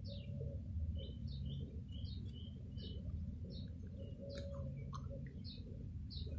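A small bird chirping over and over in short, quick, downward-sliding notes, over a low steady hum. About four and a half seconds in, a few sharp clicks as the plastic lid comes off a small jar of paint.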